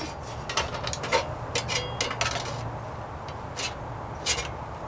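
Scattered light knocks and clinks of a steel sheet-metal patch and hand tools being handled, irregular and about ten in all, one ringing briefly. A low steady hum sits underneath.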